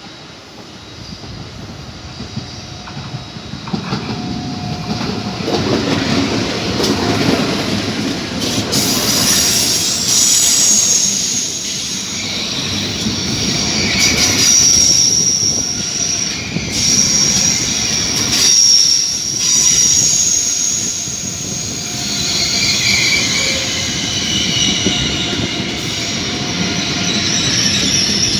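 A train rolling along the tracks, growing louder over the first several seconds as it draws near, then running loud with a low rumble. Its wheels squeal on the rails in high, wavering tones that come and go.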